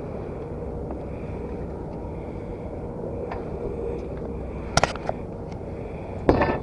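Steady rumble and faint hum of the charter boat's motor, with a sharp knock just under five seconds in and a short clatter near the end.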